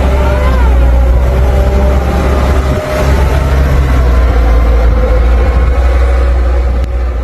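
Wind buffeting the microphone in a heavy rumble, with a faint steady motor hum underneath.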